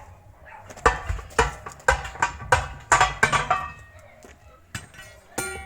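Metal struck hard, a run of about six sharp ringing blows roughly half a second apart, then one more ringing blow near the end, as in hammering on steel during a backhoe wheel repair.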